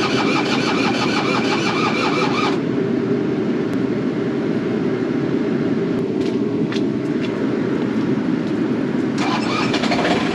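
Takeuchi excavator's diesel engine running steadily at idle. A higher, buzzing rattle with a steady tone sits over it for about the first two and a half seconds and comes back near the end.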